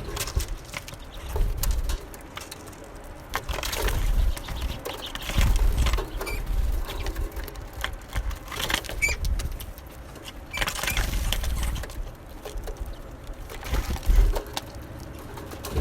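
Small songbirds at a feeder: fluttering wings and pecking, scrabbling clicks, with a few short high chirps. Low rumbling swells come and go underneath.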